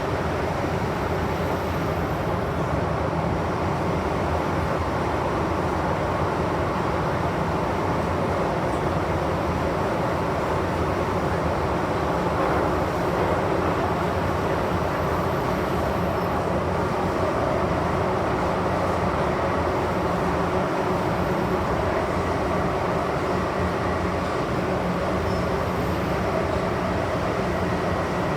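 MTR M-Train electric metro train running steadily between stations, heard on board: a steady rumble of wheels on rails and traction equipment that neither rises nor falls.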